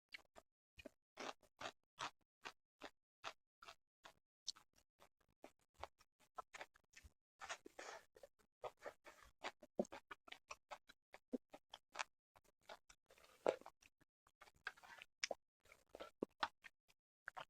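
Close-miked chewing of sushi: a run of small mouth clicks and smacks, a few a second, with a couple of short, denser stretches.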